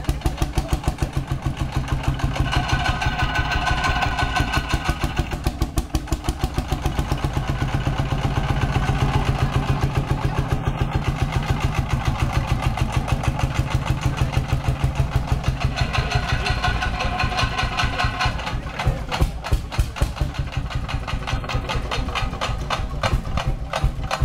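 Vintage tractor diesel engine running with a steady, pulsing beat, the revs rising briefly twice. Near the end the beats slow and come as sharper, more separate knocks.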